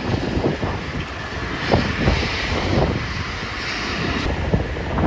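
Aircraft engines running at the airport, heard through heavy wind buffeting on the microphone. A hissing engine roar swells about a second and a half in and cuts off abruptly near the end.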